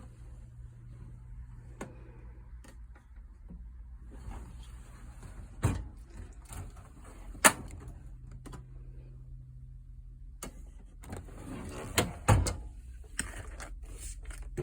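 Metal toolbox drawers sliding on their runners in two spells, each ending in sharp clunks, with a steady low hum underneath.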